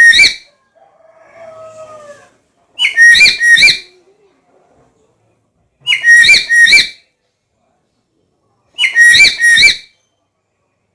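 Black-capped lory giving a loud whistled two-note call, repeated four times about every three seconds. A softer, lower gliding call comes between the first two.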